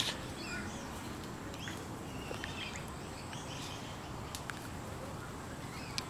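Outdoor background noise with scattered faint bird chirps and a couple of small clicks.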